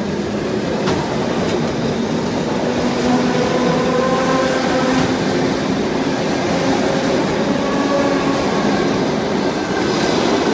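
An ET2M electric multiple unit runs past close by. Its steady running noise carries a low hum, with a few light clicks as the wheels cross rail joints.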